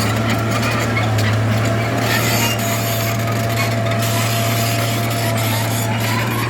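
Bulldozer's diesel engine running steadily under load, with a continuous grinding, scraping noise over the drone.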